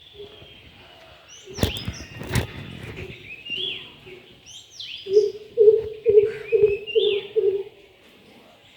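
Greater coucal (crow-pheasant) giving its deep hooting call: a run of about six low, evenly spaced 'coop' notes starting about five seconds in, growing louder. Small birds chirp higher up throughout, and two sharp knocks come around the second and a half mark.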